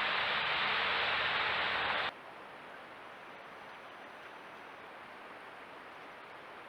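Steady rush of flowing river water. It is loud for about two seconds, then cuts off abruptly to a fainter rush.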